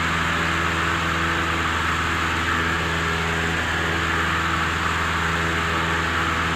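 Cessna 172M's four-cylinder Lycoming engine and propeller droning steadily in flight, with an even, unchanging pitch.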